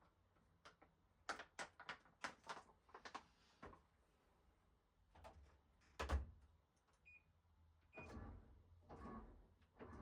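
Faint household handling sounds: scattered clicks and knocks, a louder thump about six seconds in, two short high beeps a second apart near seven and eight seconds, then low rustling.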